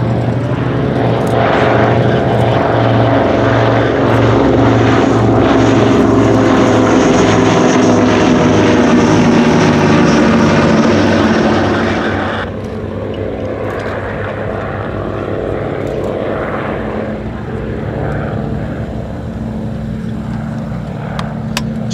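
Two vintage twin-engined piston biplane and monoplane flying past together: the Avro Anson's pair of Armstrong Siddeley Cheetah radial engines and the Dragon Rapide's pair of de Havilland Gipsy Six inline engines, their different engine notes droning as one. The sound is loudest in the first half, then drops suddenly about twelve seconds in and continues as a quieter drone.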